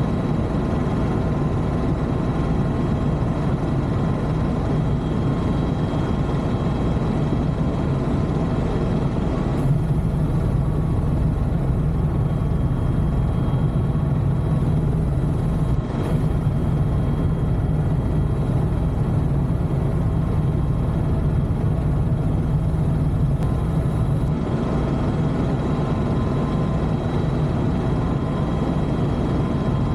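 Helicopter engine and rotor noise heard steadily from inside the cabin in flight, a continuous deep drone with a faint steady whine above it.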